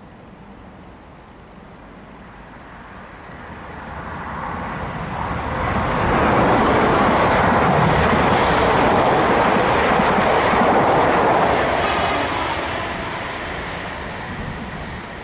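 A train passing at speed: a rush of wheel and rail noise that builds over a few seconds, holds loud for about six seconds, then fades away.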